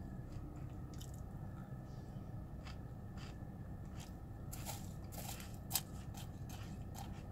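Close-up chewing of a mouthful of Cocoa Pebbles cereal in milk: scattered short crunches over a steady low hum, with one louder crunch near the end.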